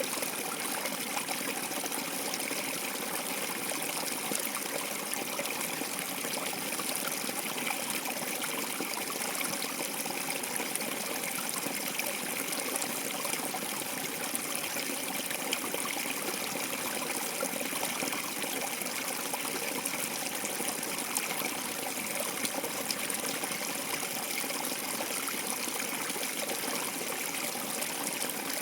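Water flowing and trickling steadily, an even rushing hiss that does not change.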